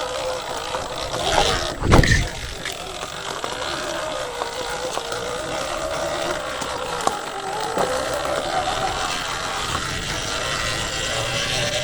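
A motor's whine wavering up and down in pitch, with a single thump about two seconds in over a low rumble.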